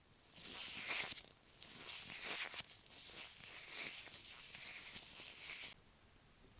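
Latex-gloved fingertips rubbing and tapping directly on an earphone microphone: a close, crackly, sticky rustling in a few stretches that cuts off suddenly near the end.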